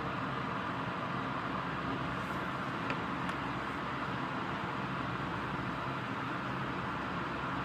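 Steady heavy rain falling during a thunderstorm, an even rushing hiss with no thunder.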